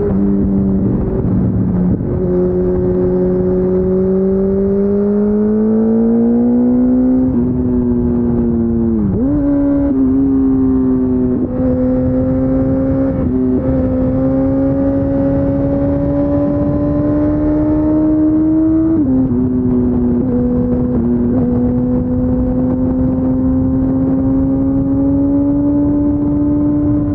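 Kawasaki ZZR1400 (ZX-14R) inline-four engine running through an Akrapovic Racing Line exhaust under way, picked up at the fuel tank. The engine note climbs steadily under throttle and dips briefly several times as the revs drop, then holds at a steady, slowly rising cruise over a rushing noise underneath.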